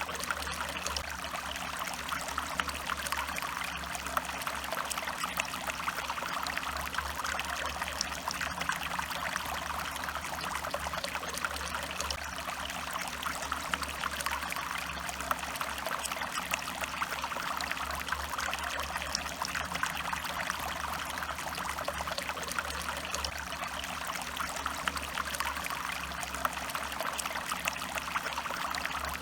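Stream water running and trickling over rocks, a steady splashing rush with fine bubbling detail.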